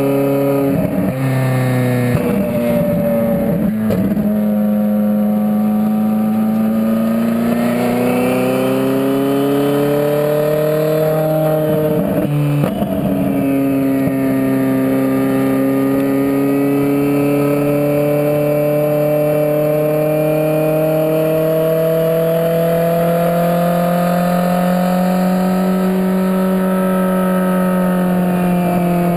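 Twin-turbocharged 4.5-litre V8 of a Ferrari 458 Spider pulling hard under way, its pitch rising and falling, with quick breaks at gear changes in the first half. A long, slow climb in engine pitch follows through the second half.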